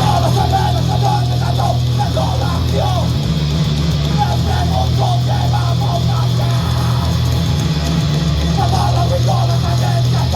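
Rock band playing loud and live: a heavy, sustained bass drone under fast, choppy guitar figures, with the full band crashing in right at the start.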